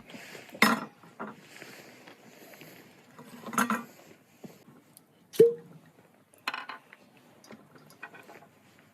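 Tableware knocking and clinking a few times, with one sharp ringing clink about five seconds in.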